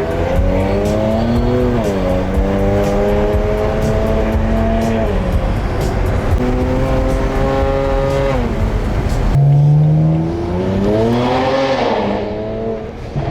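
Car engine accelerating under load, its revs climbing and then dropping back several times as it shifts up through the gears.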